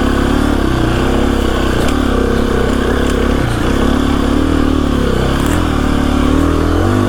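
KTM 350 EXC-F dirt bike's single-cylinder four-stroke engine running at low revs, its pitch rising and falling a little with small throttle changes.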